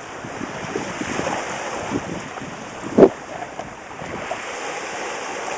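Wind buffeting the microphone over waves breaking on the shore, with one sharp knock about three seconds in.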